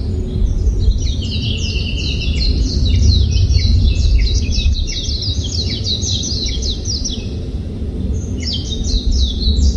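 Songbird singing long, fast runs of short high chirping notes, one after another, pausing about 7.5 s in and starting again near the end. Under it runs a steady low rumble of wind.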